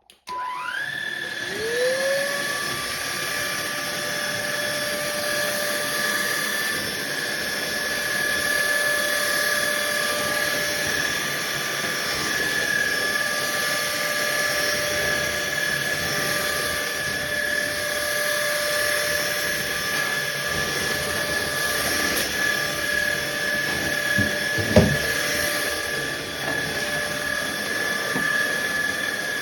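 Fieety 600 W cordless stick vacuum's motor switching on and spinning up within a second or two, then running with a steady high whine. A single short thump comes about 25 seconds in.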